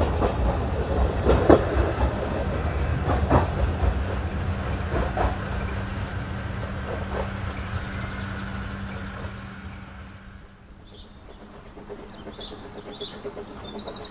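Narrow-gauge train's coaches rumbling away over the rail joints, with a knock about every two seconds, fading out over about ten seconds. Birds chirp near the end.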